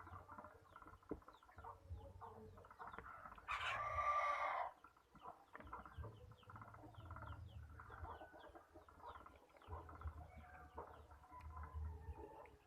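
A rooster crows once, about three and a half seconds in, lasting a little over a second, over faint small ticks and low thumps.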